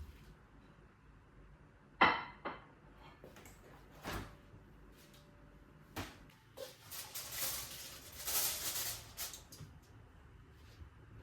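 Kitchen sounds: a loud clink of dishware with a short ring, two lighter knocks, then about three seconds of a rushing, hissing noise.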